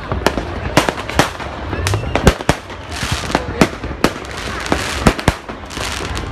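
Fireworks and firecrackers going off: a rapid, irregular run of sharp bangs and pops over a steady noisy background.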